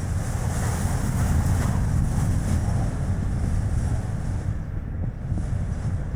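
Strong wind buffeting the microphone, a heavy low rumble, over tyre and road noise from a moving Chevrolet Spark.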